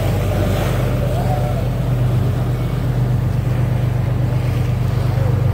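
Tour boat's engine running with a steady, loud low drone.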